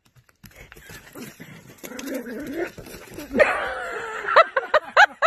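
A dog whining with a long falling cry, then breaking into a quick string of high yapping barks near the end.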